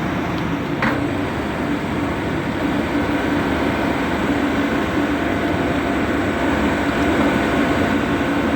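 Engine running steadily with a constant drone, during the lowering of a rubber boat; a faint knock about a second in.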